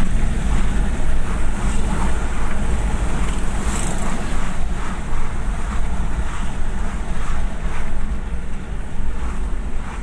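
Nissan Patrol GU Y61's ZD30 four-cylinder turbo-diesel engine running steadily, a loud deep rumble.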